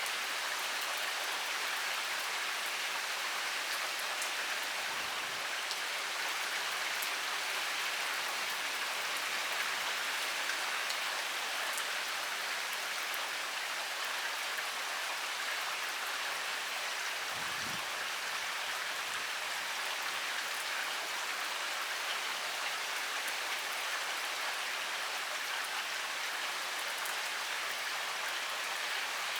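Heavy rain pouring steadily: an even, dense hiss of drops with fine individual patters on top. Twice a faint low thud, about 5 and 17 seconds in.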